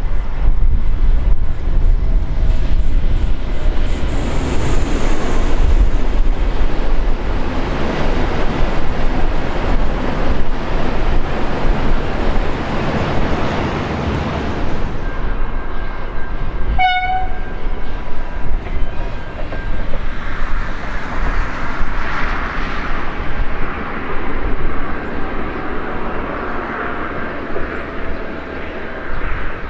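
A train running past at close range with a loud, continuous rumble that eases after about the halfway point. About two-thirds of the way through there is a single very short horn toot.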